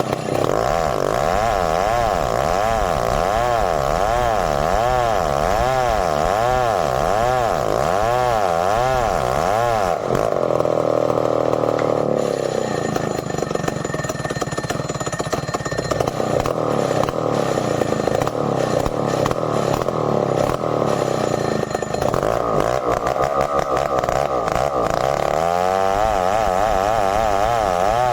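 Stihl 070 two-stroke chainsaw running under load while sawing merbau hardwood. For the first ten seconds its pitch rises and falls in a steady rhythm about one and a half times a second. It then drops to a lower, steadier note, climbs again near the end, and returns to the rising-and-falling rhythm.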